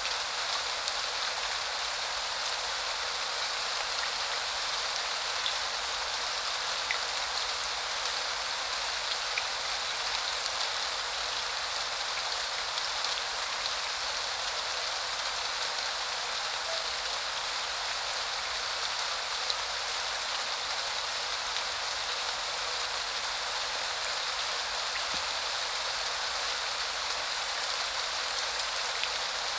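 Steady spring rain falling and pattering on surfaces, an even hiss with a few sharper drop ticks now and then.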